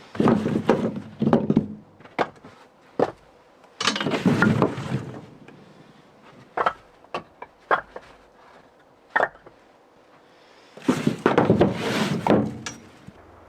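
Split firewood logs knocking and clattering against each other as they are handled and stacked: three bursts of rapid wooden clatter with single sharp knocks in between.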